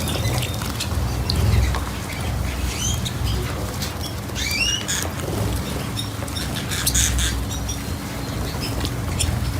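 Small cage birds chirping, with short rising-and-falling calls clustered in the middle, over scattered light clicks and a steady low rumble.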